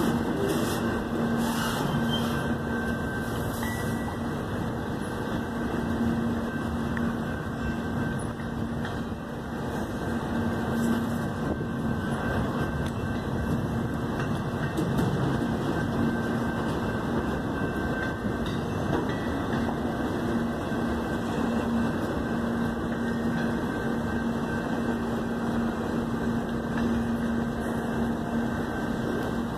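Double-stack container freight train rolling past at close range: a steady noise of steel wheels on the rails, with a constant hum running under it.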